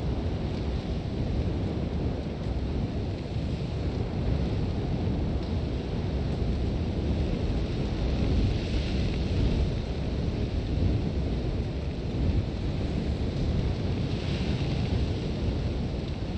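Sandstorm wind blowing hard and steadily, a deep rumble with the hiss of blown sand over it. The hiss swells in gusts about nine and fourteen seconds in.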